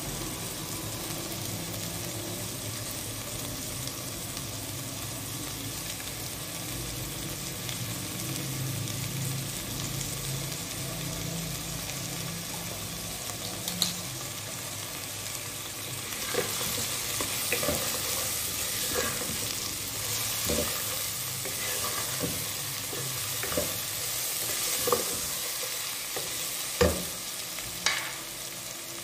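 Mutton and onions sizzling in a pot, with a spoon knocking and scraping against the pot as the spices are stirred in, the knocks coming in the second half and loudest near the end.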